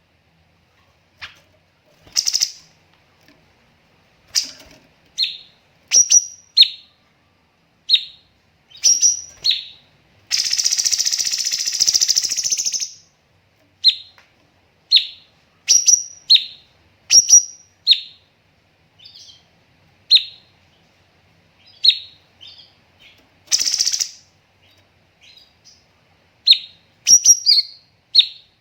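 Cucak cungkok singing: short, sharp, high call notes repeated with brief pauses, broken about ten seconds in by a dense rapid-fire burst (tembakan) lasting about two and a half seconds, and a shorter burst later on.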